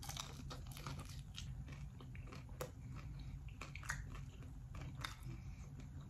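Close-up biting and chewing on a crunchy Wingstop fried chicken wing: irregular sharp crunches and crackles of the breading throughout, over a steady low hum.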